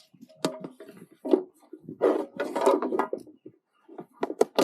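Knocks, clatter and rubbing of gear being handled on a plastic kayak, with several sharp knocks and a longer scraping stretch in the middle.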